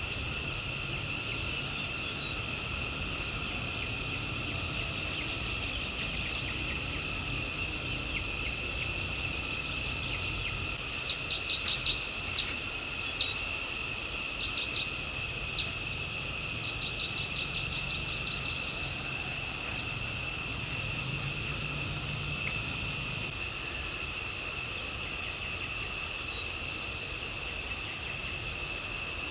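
Steady high-pitched drone of insects. Partway through, several short runs of sharp clicks stand out over it.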